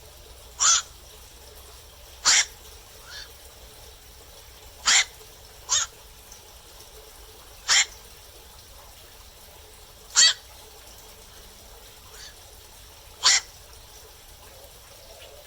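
Black-crowned night heron calling at night: a series of short single calls, seven loud ones spaced about one to three seconds apart, with a couple of fainter calls between them.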